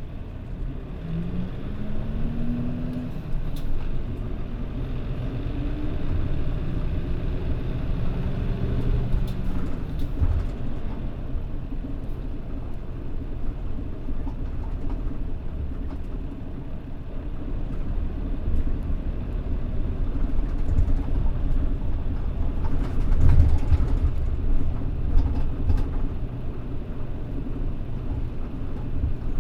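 Mitsubishi Fuso Aero Star (PJ-MP35JM) city bus running on the road: its diesel engine rises in pitch twice in the first several seconds as the bus picks up speed, then runs steadily with a low rumble.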